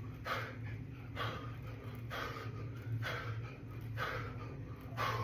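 A man breathing hard through a set of push-ups: short, forceful breaths about once a second, in time with the reps.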